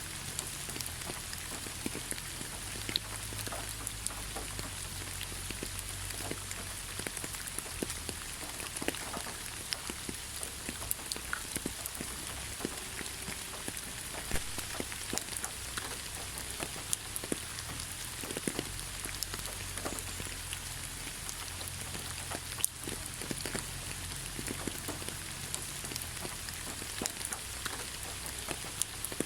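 Steady rain pattering on leaves, with many separate drops ticking throughout.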